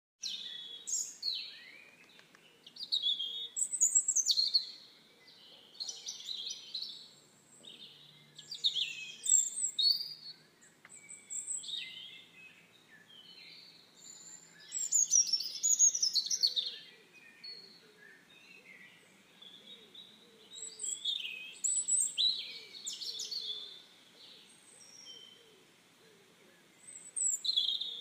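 Songbirds chirping and singing in short, quick phrases, a new group every second or two with quieter gaps between.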